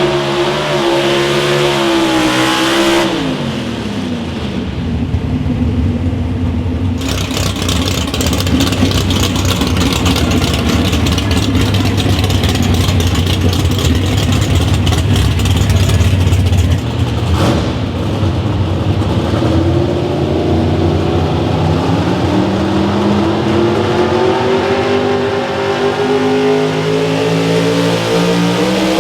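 Competition pulling vehicle's engine running hard. Its revs drop about three seconds in, it runs loud and crackling from about seven to seventeen seconds, then the revs climb steadily through the last ten seconds.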